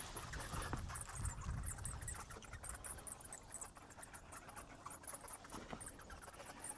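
Colony of bats squeaking and chittering inside a rock crevice: a faint, rapid patter of high-pitched squeaks and clicks that sounds weird.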